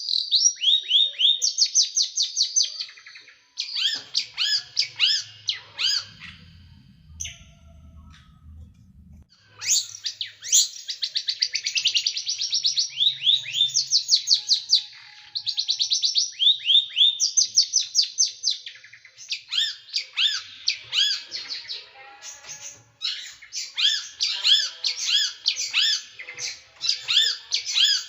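Small songbird singing fast, tightly packed volleys of sharp, descending chirps: the harsh, rapid 'tembakan' song style. The volleys come in repeated bursts, with a break of a few seconds about a quarter of the way through that holds only a faint low rumble.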